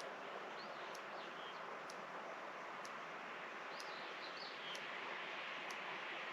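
Rural outdoor ambience: a steady hiss of background noise, with small birds chirping in two short bouts, early and again past the middle. Faint, regular high ticks come about once a second.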